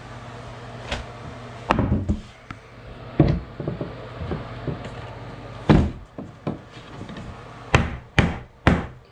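Irregular knocks and thuds on wood, like a hammer striking boards: scattered hits, then four quick ones near the end.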